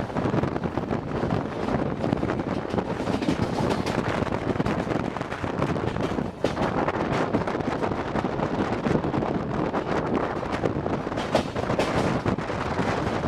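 A moving train rushing and clattering, with wind buffeting the microphone.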